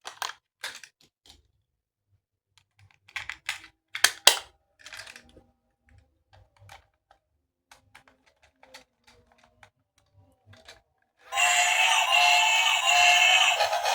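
Hard plastic toy parts clicking and snapping as they are handled and fitted together, a string of sharp clicks. About eleven seconds in, a tinny electronic tune starts, loud and steady.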